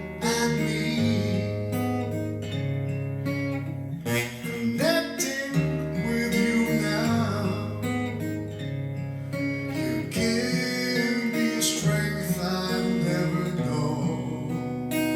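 Music: acoustic guitar strumming and picking a slow accompaniment, with a voice singing in places.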